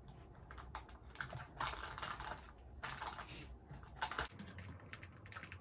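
Small plastic snack packets rustling and clicking as they are handled and packed into a toy basket, in irregular light taps and crinkles with a sharper click about four seconds in.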